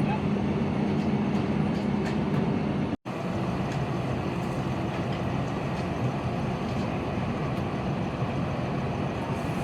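A vehicle engine running steadily with a low hum, under constant outdoor noise. The sound cuts out abruptly about three seconds in and resumes as steady noise.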